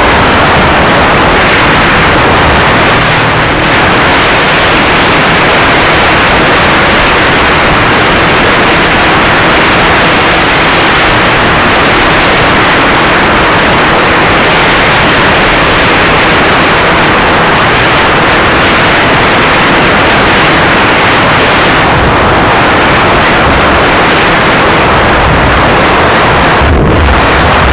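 Loud, steady rush of wind and road noise on a motorcycle-mounted action camera's microphone while riding a Kawasaki Ninja 250R.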